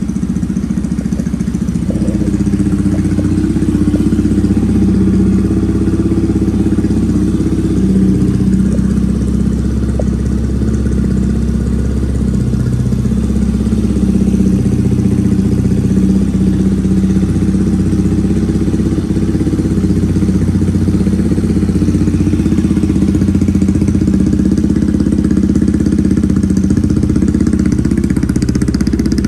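Kawasaki KSR110's single-cylinder four-stroke engine idling steadily through an aftermarket Beams muffler.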